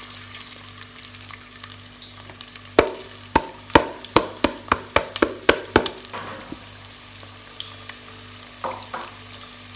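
Onions frying in hot vegetable oil in a sufuria, sizzling steadily. From about three to six seconds in comes a run of about ten sharp knocks, roughly two a second.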